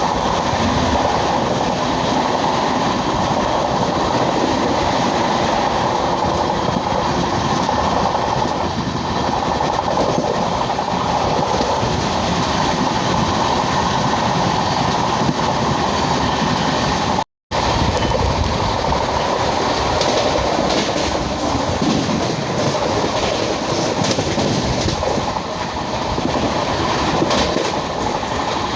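An LHB passenger train running along the track: steady rumble and wheel-on-rail noise. The sound cuts out to silence for a split second partway through.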